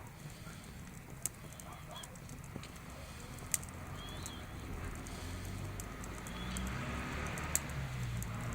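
Campfire burning and crackling, with a few sharp pops.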